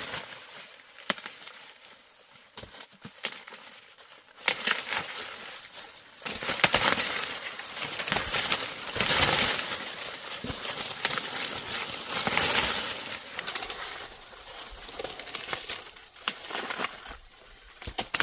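Dry plant material rustling and crackling in irregular bursts. It is faint at first, gets loud a few seconds in, and fades back near the end.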